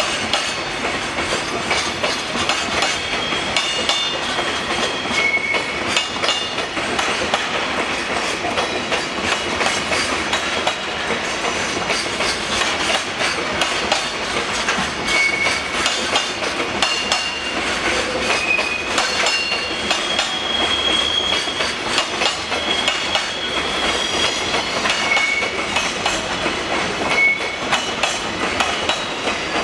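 Loaded container flatcars of a departing freight train rolling past at low speed, their wheels clicking and clacking over rail joints. Brief high-pitched wheel squeals come and go throughout.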